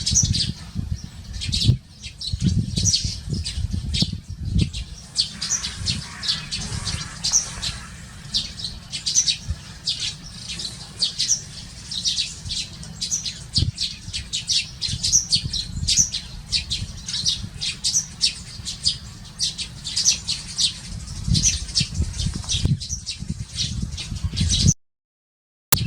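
A flock of Eurasian tree sparrows chirping busily while feeding, many short overlapping chirps, over a steady low rumble. The sound cuts out completely for about a second near the end.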